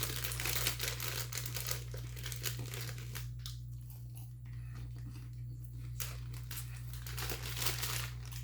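A bag of Garrett's popcorn being handled and opened, crinkling and rustling in two spells: one for the first few seconds and another near the end.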